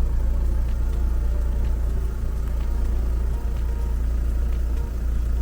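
Steady low rumble of a VW California campervan driving, heard from inside the cab: engine and road noise.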